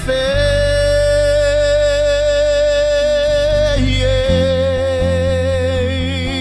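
A song: a voice holds one long sung note, then a slightly lower note with vibrato, over a steady low accompaniment.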